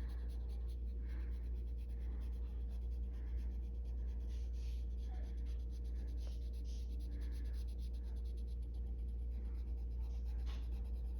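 Arteza colored pencil scratching across coloring-book paper in short repeated shading strokes, about one or two a second, over a steady low hum.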